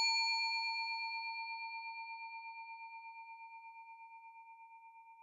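A single struck bell ringing out and fading away, one clear tone with a few fainter higher overtones and a steady wobble in loudness as it dies.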